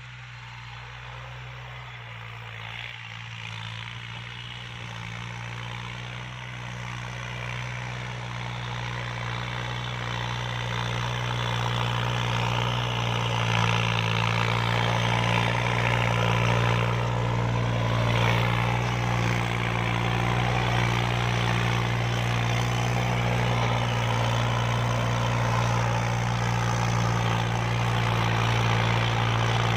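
Kubota L3218 tractor's diesel engine running steadily under load as it pulls a rotary tiller. It grows louder over the first half as it comes closer, then holds level.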